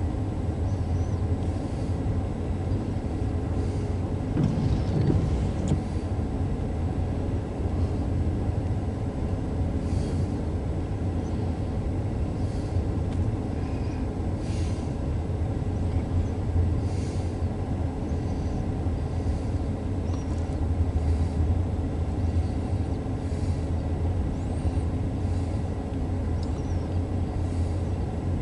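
Union Pacific double-stack intermodal freight train rolling across an elevated viaduct: a steady low rumble, heard muffled from inside a car, with a few faint scattered clicks.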